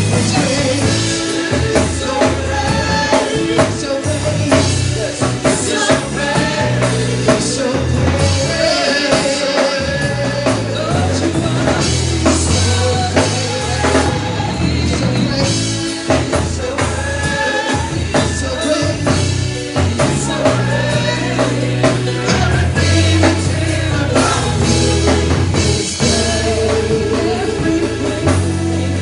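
Live worship band playing with singing: melodic sung lines over bass and a drum kit keeping a steady beat.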